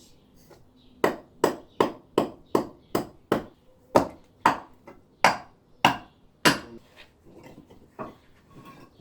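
Hammer striking limestone to shape a rock: a quick run of about a dozen sharp, ringing blows, two to three a second, then a pause and one more blow near the end.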